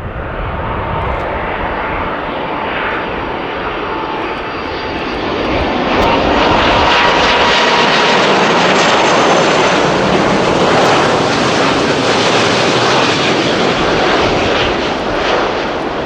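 Jet airliner's engines passing close, a dense rushing noise with a faint thin whine that grows louder about six seconds in and stays loud.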